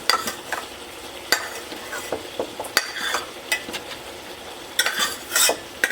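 A utensil stirring and scraping fried rice in a hot pot, with irregular scrapes and clicks against the pot over a steady sizzle.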